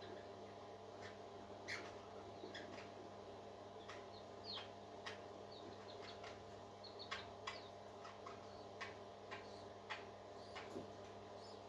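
Parakeets giving short, scattered chirps and sharp clicks, faint, over a steady low hum.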